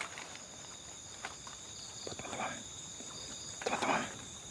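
Steady high-pitched chirring of night insects such as crickets, with two soft rustles, the louder one near the end.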